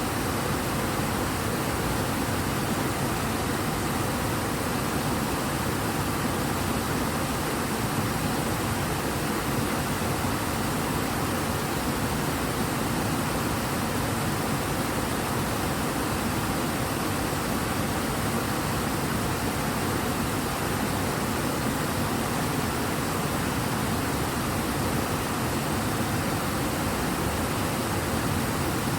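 The Ebro river running fast and full, a steady, even rush of water.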